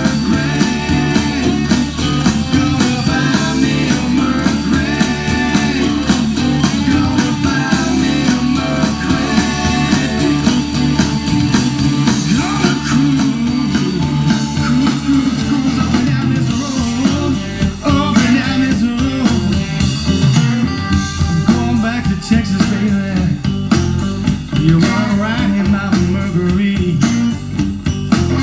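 A blues-rock song with guitar and a singing voice, played back loudly through Klipsch Forte loudspeakers driven by a freshly repaired Pioneer SX-434 stereo receiver.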